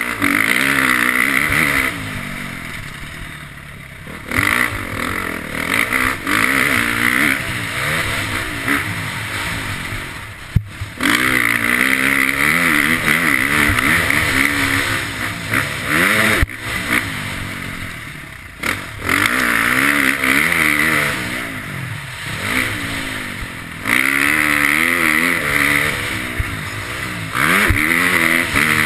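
KTM motocross bike's engine revving hard and easing off over and over as it is ridden around the track, its pitch climbing and falling repeatedly. The sound drops out sharply for a moment a few times.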